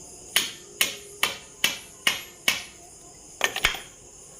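Hammer tapping a new bush into a mixer-grinder jar's base to drive it down. There are six evenly spaced strikes, about two a second, each with a short ring. Three quick strikes follow near the end.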